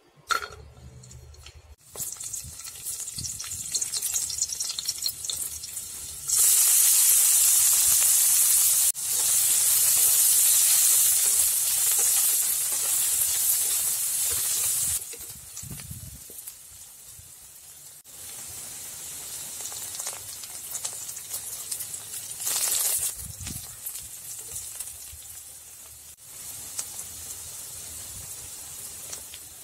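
Garlic cloves and sliced onions sizzling as they fry in hot oil in a kadai. The sizzle jumps much louder about six seconds in and drops back about fifteen seconds in, and it changes abruptly several times.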